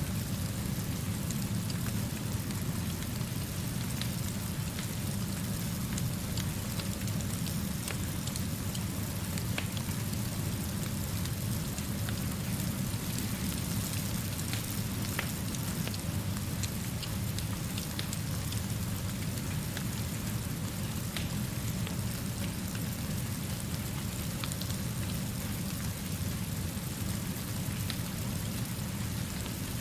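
Steady rainfall, an even hiss with a low rumble underneath and scattered faint ticks of drops, unchanging throughout.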